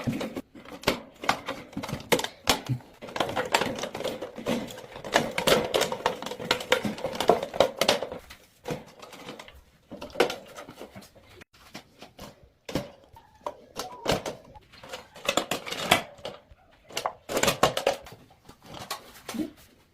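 Irregular clicking, tapping and knocking of hard objects being handled, with a faint steady hum for a few seconds near the start.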